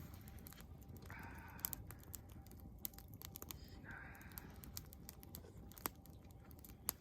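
A crow cawing twice, a harsh call about a second in and another about four seconds in, over scattered sharp crackles from the wood campfire.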